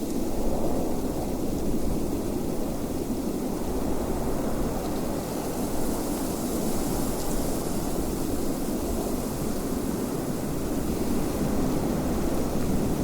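Steady wind blowing, a deep rushing noise that swells slightly now and then.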